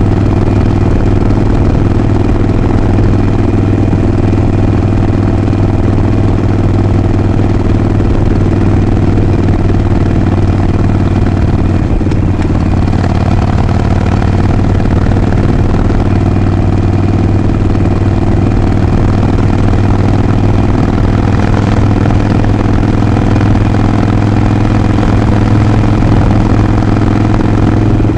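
Harley-Davidson Sportster 48's air-cooled 1200 cc V-twin engine and exhaust running steadily at nearly constant revs, with a slight shift in tone about halfway through.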